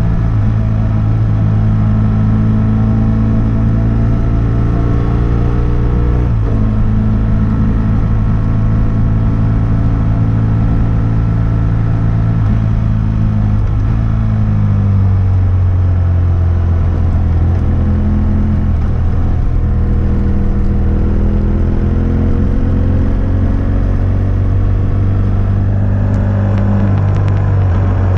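Exhaust note of a BMW F800S parallel-twin through a GPR Furore Nero slip-on with its dB-killer fitted, recorded while riding. The engine note holds fairly steady, changes briefly about six seconds in, drops in pitch around fourteen seconds in, then climbs slowly again.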